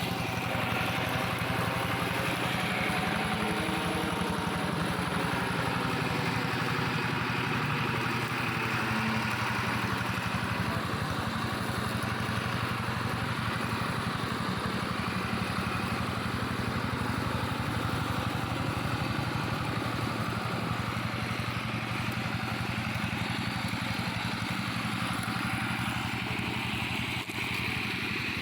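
Engine of a plough tractor modified into a grass and brush mower, running steadily with a rapid firing beat. Its pitch wavers slightly in the first ten seconds, and it dips briefly just before the end.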